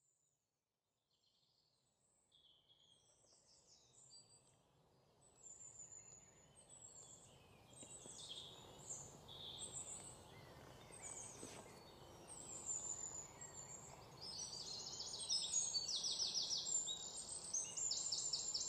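Birds chirping and singing over a faint outdoor background, fading in from silence about five seconds in. The calls grow busier toward the end, with rapid high trills.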